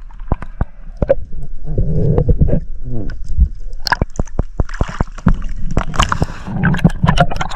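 Water sloshing and gurgling around a camera at the water's surface, with many sharp clicks and knocks.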